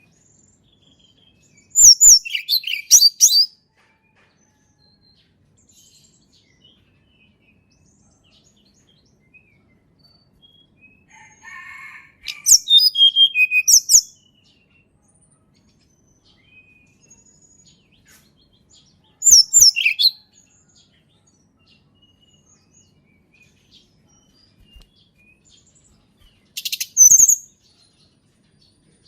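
Tledekan gunung singing: four short, high-pitched phrases of rapid notes, each about a second or two long, separated by pauses of several seconds.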